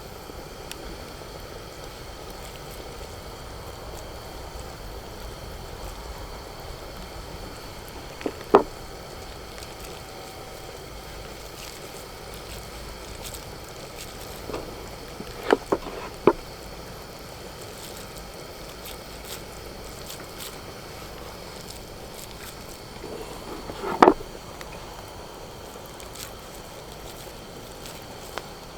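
Steady low hiss with a handful of sharp pops or clicks: one about a third of the way in, three in quick succession about halfway, and a louder one near the end.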